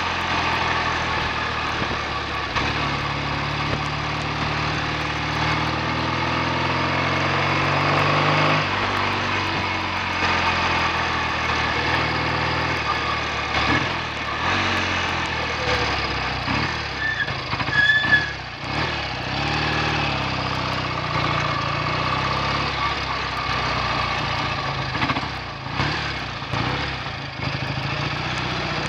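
BSA A65 650cc parallel-twin engine running under way, rising in pitch for several seconds, dropping off about a third of the way in, then running more unevenly. The engine has developed a misfire and the clutch is slipping.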